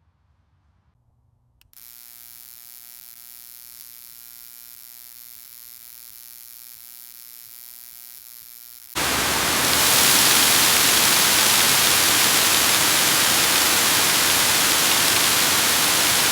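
A steady electrical-sounding buzz with many even overtones starts about two seconds in. About nine seconds in it cuts abruptly to a loud, steady static hiss.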